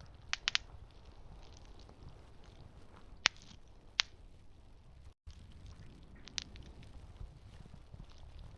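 Campfire burning with a low rumble and sharp crackling pops from the wood: a quick cluster of three pops near the start, two loud single cracks around the middle, and a softer one later. A split-second dropout about five seconds in.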